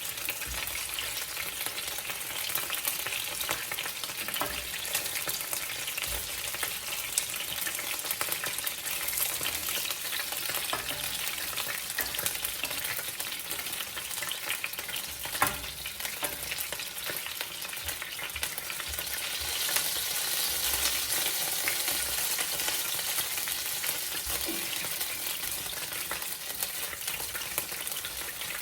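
Chicken pieces sizzling steadily as they fry in oil in a pan, with scattered clicks of a utensil turning them; one click stands out about halfway through.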